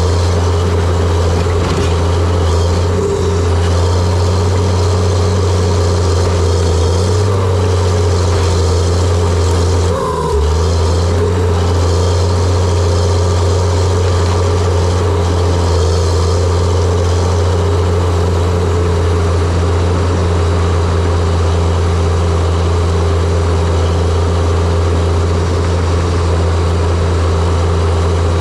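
John Deere 700J-II crawler dozer's diesel engine running steadily with a loud, low drone. There is a brief dip about ten seconds in.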